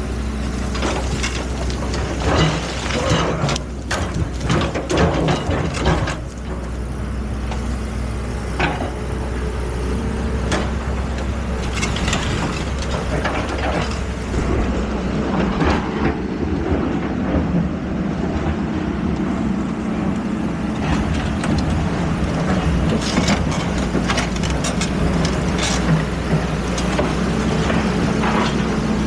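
Excavator's diesel engine running steadily, with irregular clanks and scrapes that are thickest in the first few seconds.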